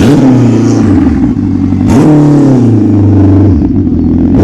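Turbocharged motorcycle engine revved hard in three blips, near the start, about two seconds in and at the end. Each opens with a sharp burst and rises in pitch, then falls back toward idle.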